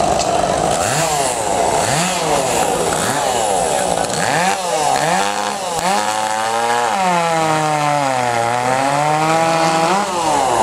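Small two-stroke chainsaw cutting through a log. Its engine pitch keeps dipping and rising as the saw bogs down under load in the cut and recovers, with a long sag over the last few seconds before it climbs again.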